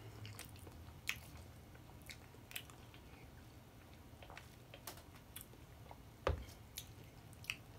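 Quiet close-up eating sounds: soft chewing with scattered wet mouth clicks and ticks, and one heavier knock about six seconds in.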